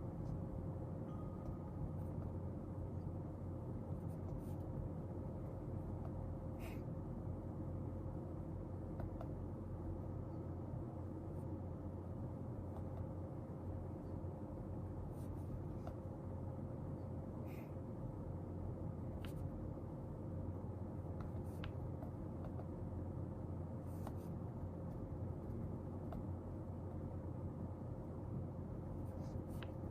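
Steady low room hum with a faint constant tone, over which come scattered light ticks and scratches of desk work, such as a pen writing on paper.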